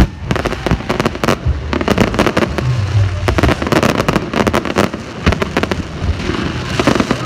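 Fireworks going off in a rapid, irregular barrage of bangs and crackles, with a low rumble underneath.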